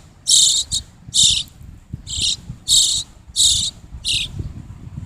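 A fledgling bird begging for food: a run of short, raspy, high-pitched chirps, about seven of them at roughly one every two-thirds of a second, the last ones weaker.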